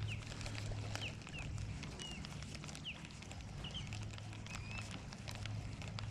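Small birds chirping: short, quick calls that rise or fall in pitch, repeated every second or so, over a steady low drone and scattered faint clicks.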